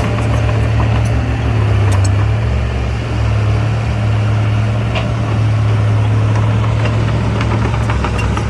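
Heavy construction machine's diesel engine running steadily with a deep, even hum, and a few faint clicks over it.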